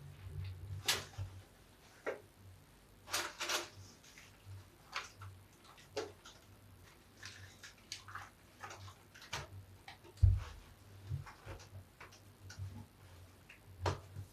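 Large soapy bath sponge being lathered and squeezed by hand among soap scraps, giving scattered wet squishes and crackles, with a thump about ten seconds in.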